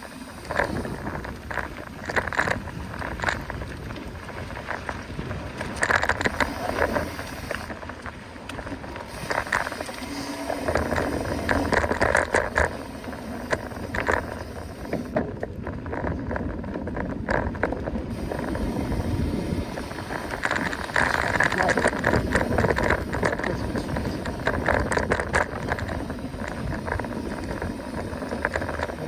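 Mountain bike riding a forest trail: tyre noise on dirt and many short clicks and rattles of the bike over bumps, with a steady low rumble of wind on the microphone.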